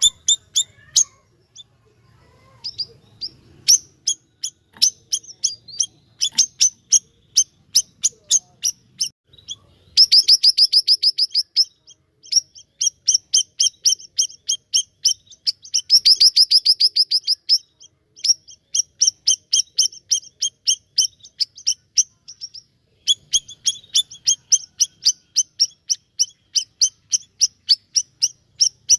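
Siri-siri bird singing vigorously: long runs of sharp, high chirps repeated several times a second, twice breaking into a fast, loud trill.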